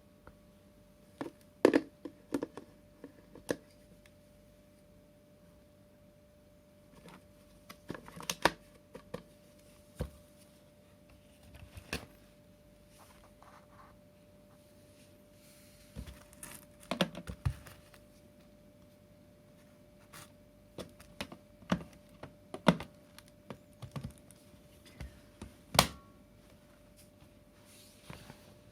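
Irregular clicks and knocks of hard plastic parts of a cordless cyclone vacuum cleaner being handled, in several short clusters with pauses between, over a faint steady hum.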